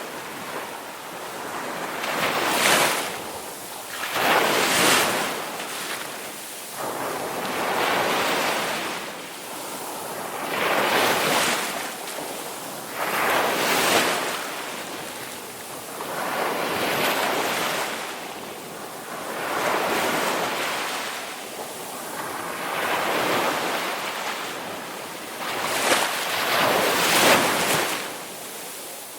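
Ocean surf: waves breaking and washing in, surging up and fading away every few seconds over a steady hiss.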